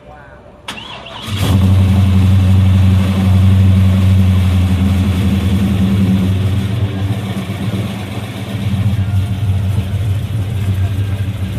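A car engine comes in suddenly about a second in, then runs loudly and steadily with a low, even rumble.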